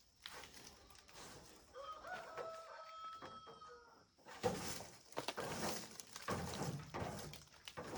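A rooster crowing once, a drawn-out call about two seconds in. It is followed by irregular clattering knocks, the loudest a sharp knock a little past the middle.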